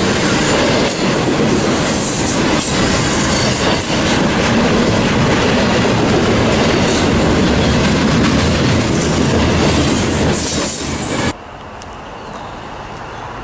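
Norfolk Southern freight train rolling past close by, its cars' wheels loud and steady on the rails. The sound cuts off abruptly about eleven seconds in, leaving a much quieter outdoor background.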